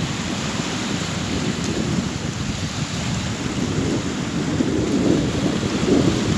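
Sea waves breaking and washing onto the shore: a steady rush of surf over a deep rumble, swelling louder near the end.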